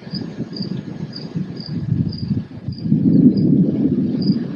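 A high, thin chirp repeating about twice a second, typical of a cricket, over a ragged low rumble that swells about three seconds in.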